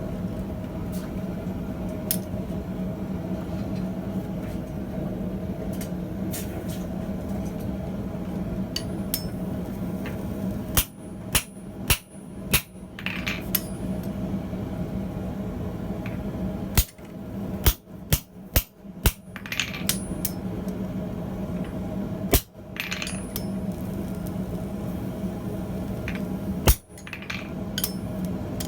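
Blacksmith's hammer striking hot steel on an anvil in short runs: about four blows, then a quicker run of about six, then two single blows near the end, over a steady low hum.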